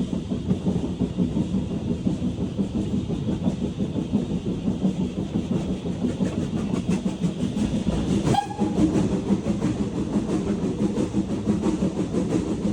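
Steam train hauled by BR Standard Class 4 tank locomotive 80151 running along the line, with a steady rumble and rattle of the train in motion. About eight seconds in there is a sudden short, high-pitched sound that rises and then holds for a moment.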